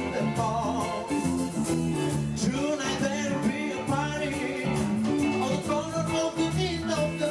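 Pop band music with a steady beat and a moving melody line.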